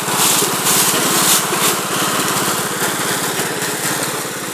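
Riding lawn mower engine running steadily as the mower drives along, growing a little quieter toward the end.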